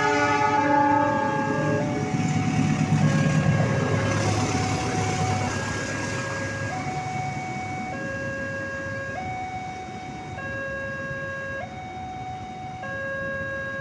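Train horn sounding loudly for about two seconds as a train rushes past over a level crossing, its rumble and wheel noise fading over the next few seconds. Throughout, the crossing's electronic warning signal keeps switching between two tones, about once a second or so.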